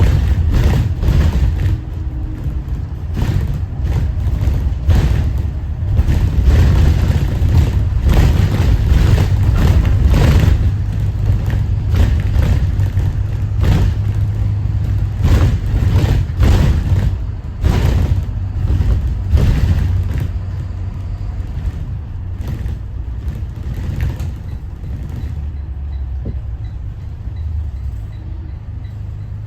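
Detroit diesel engine of a Thomas Saf-T-Liner C2 school bus running on the move, a steady low drone with frequent short knocks and rattles. It gets quieter after about 20 seconds.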